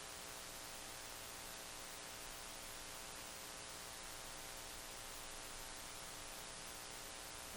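Steady hiss with a faint electrical hum: the recording's background noise floor, with no distinct event.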